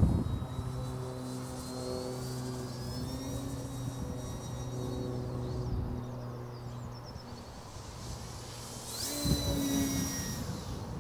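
Brushless electric motor and propeller of a Durafly Ugly Stick V2 RC plane whining in flight, its pitch gliding up and down as the throttle and the plane's distance change. About nine seconds in it comes past louder, the whine rising then falling.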